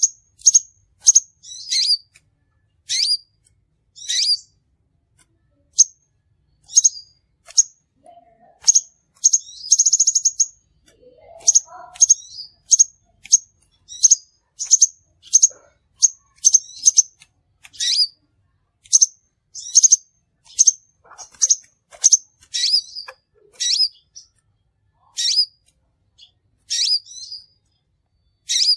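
Crimson sunbird calling: short, sharp, high-pitched chirps repeated about once or twice a second, with a brief buzzy trill about ten seconds in.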